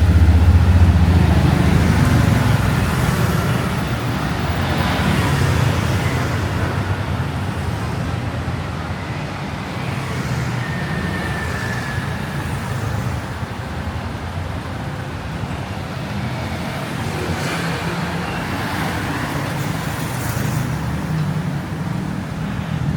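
Street traffic: a steady low rumble of vehicle engines and tyres, loudest at the start and easing off, with the hiss of vehicles passing a few times.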